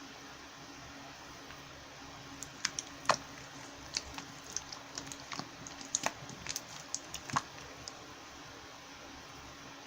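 Slime being pressed and poked by hand, giving a few seconds of crisp, irregular clicks and pops over a steady low hum.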